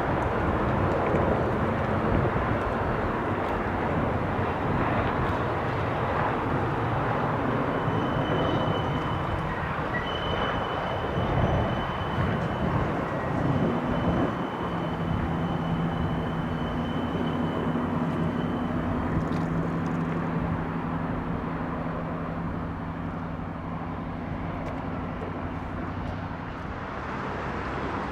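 A train rolling by on the rails with a steady rumble. A faint high squeal comes and goes in the middle, and a low hum joins the rumble in the second half.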